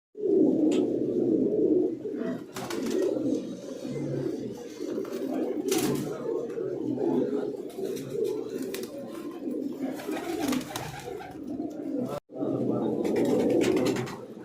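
Domestic fancy pigeons cooing continuously, many calls overlapping, with a few short sharp sounds among them. The sound breaks off briefly about twelve seconds in.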